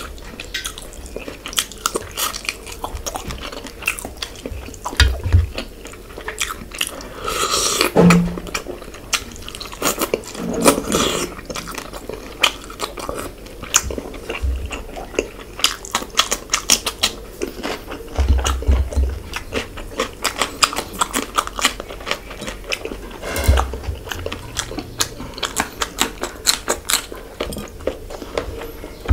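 Close-miked chewing and wet mouth sounds from a man eating spicy fish curry by hand. There are many quick sharp smacks and clicks, with a few longer, louder mouth noises in the first half.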